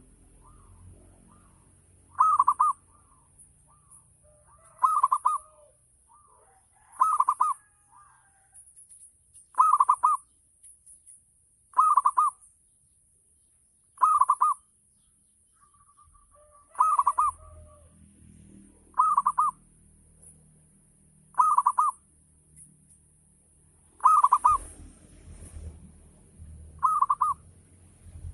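Local Javanese zebra dove (perkutut) singing its cooing phrase over and over, about once every two seconds, in the full 'ngayer' style used to prompt other perkututs to answer.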